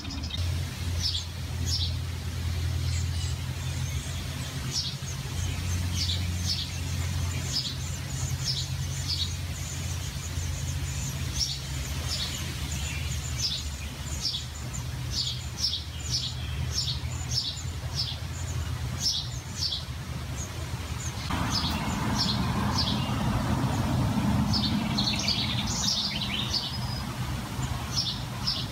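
Small birds chirping in short, repeated high notes over a steady low hum. About three-quarters of the way through, a louder rushing noise comes in and keeps going.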